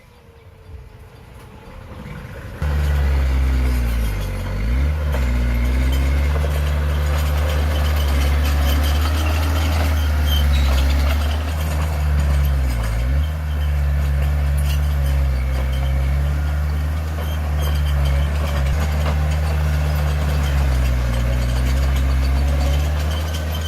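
Heavy diesel engine of earthmoving machinery starting abruptly a few seconds in and running loudly and steadily, with its pitch dipping briefly three times as it takes load.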